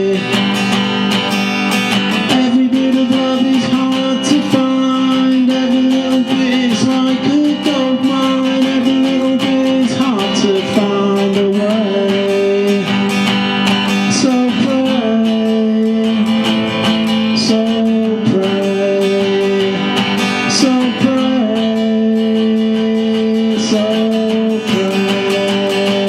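Acoustic guitar played solo in an instrumental stretch of strummed and picked chords, moving to a new chord every few seconds.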